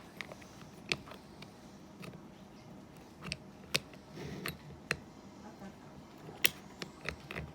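Irregular sharp metallic clicks and light taps of the front-door latch mechanism and its small parts being handled and worked, a few clicks louder than the rest.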